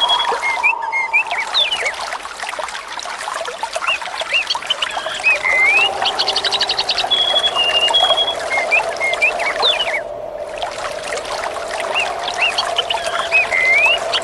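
Birds chirping and whistling, with a quick trill followed by short steady notes, over a constant trickle of water. The same short nature recording repeats about every seven seconds, as a loop.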